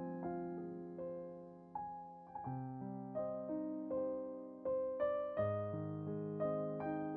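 Soft, slow piano background music: single notes and chords struck every half second or so and left to ring and fade.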